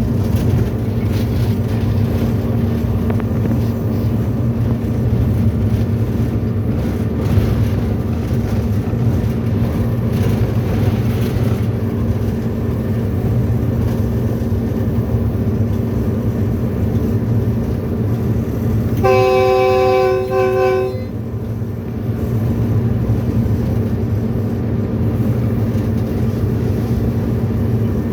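Diesel-electric locomotive running steadily at speed, heard from inside the driver's cab. About two-thirds of the way through, the horn gives one blast of about two seconds, a chord of several tones.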